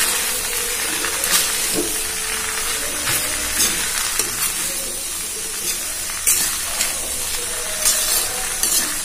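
Potato pieces frying in oil in a metal kadai, sizzling steadily while a ladle stirs them, with several short scrapes and knocks of the ladle against the pan.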